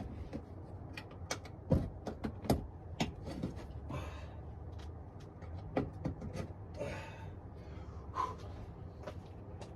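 Plastic side trim panel being handled and fitted back onto the front of a 2008 Jeep Patriot: irregular clicks and knocks of plastic against the body, with a few short scrapes.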